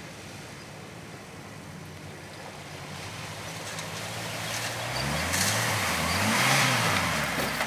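1979 GMC 4x4 pickup's engine running steadily, then revving up and down twice from about five seconds in, with a loud rush of splashing mud and water as the truck churns through the ruts.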